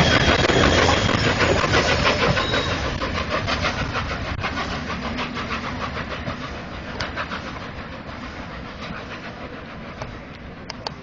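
A departing train, its wheels clicking rapidly over the rail joints, steadily fading as it moves away, with a few separate clicks near the end.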